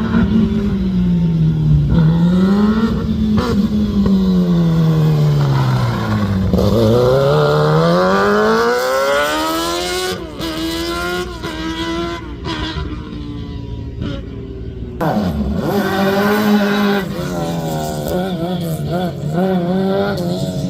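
Rally car engine being driven hard, its note falling as it slows and then climbing under hard acceleration about six seconds in. The note breaks sharply twice, near the middle and near the end, and picks up again after each break.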